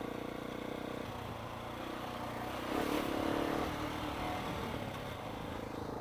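Motorcycle engine running steadily, with a brief rise in revs about three seconds in.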